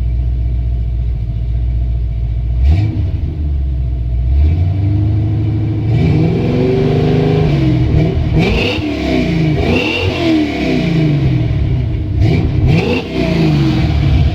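1986 Chevy C10's 350 cubic-inch V8 crate engine running through a Jegs exhaust kit: idling, a quick blip of the throttle, then revved up and let back down several times before settling to idle. The exhaust note is loud but the system is not cracked.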